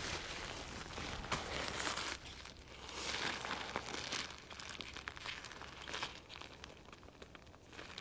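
Crinkling and rustling of camping gear material in uneven bursts, louder in the first half and dying down after about five seconds.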